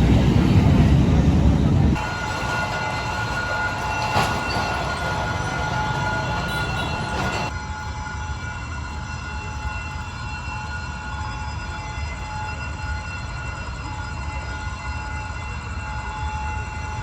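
Passenger train running, heard on board. A loud low rumble gives way abruptly about two seconds in to a quieter, steady running sound with a thin steady whine.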